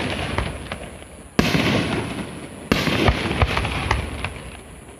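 Aerial firework shells bursting: two sharp bangs about a second and a half in and again just under three seconds in, each fading away over a second or so, with scattered small crackles and pops between them.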